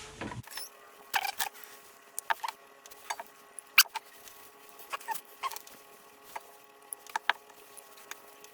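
Scattered light clicks and taps, a dozen or so, of small pump valve parts and tools being handled, over a faint steady hum.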